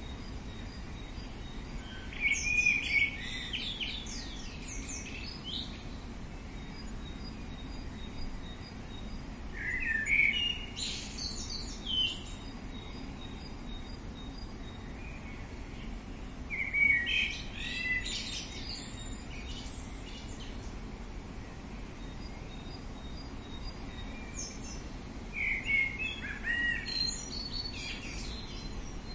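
A songbird singing four short phrases of quick rising and falling notes, several seconds apart, over a steady outdoor background hiss.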